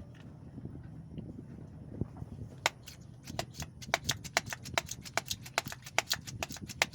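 Hand air pump being worked to push air into a truck AC system's low side, pressurising it for a leak test. It gives a rapid run of sharp clicks, about five a second, that starts a few seconds in.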